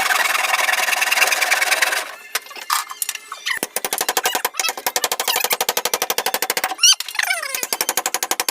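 A fast mechanical rattle: a rapid string of clicks in several bursts, loudest in the first two seconds and starting again a little over a second later. A few sliding pitch sweeps come near the end.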